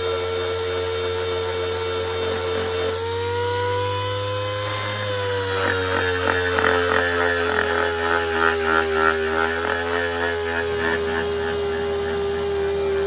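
Dual-action sander running with a steady whine that dips and rises slightly in pitch, then, from about halfway in for several seconds, a rougher rattling buzz as the pad works against the steel of the axe head.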